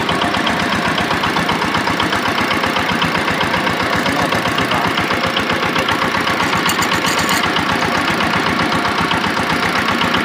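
Micro tractor's single-cylinder diesel engine chugging in a steady, fast, even beat at low throttle in third gear while pulling a loaded firewood trailer.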